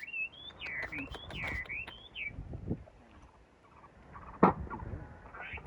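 Birds calling in a series of quick, gliding, warbling whistles for about the first two seconds, then a single sharp knock about four and a half seconds in.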